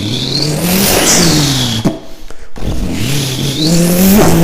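A person imitating a car engine revving with the voice, in two rev passages whose pitch rises and falls, with a short break about two seconds in.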